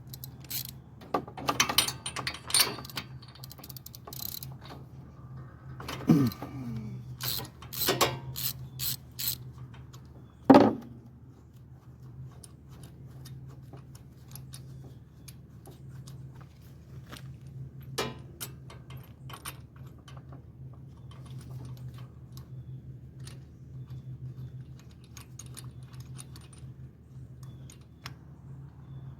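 Hand tools and metal engine parts clicking, clanking and knocking while an ignition coil is taken off and refitted on a Kawasaki FR691V V-twin mower engine. A dense run of sharp knocks comes in the first several seconds, with the loudest single clank about ten seconds in, then occasional light ticks over a steady low hum.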